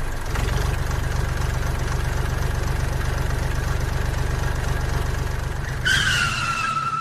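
Mini tractor engine idling with a steady, fast chug. About six seconds in, a high tone joins it and falls slightly in pitch.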